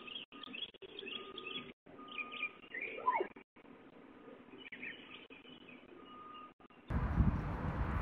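Birds chirping and singing in short, scattered calls, with one call sliding down in pitch about three seconds in, heard thinly through a doorbell-camera microphone that keeps dropping out for a split second. Near the end the sound changes suddenly to a louder rush of wind on a microphone.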